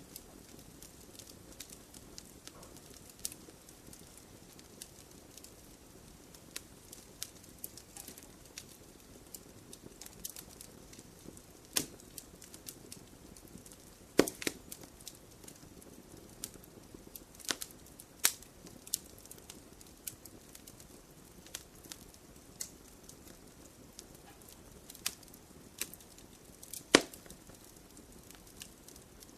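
Campfire burning, a low steady rush of flame under irregular sharp crackles and pops of burning wood, with a few louder snaps scattered through, the loudest near the end.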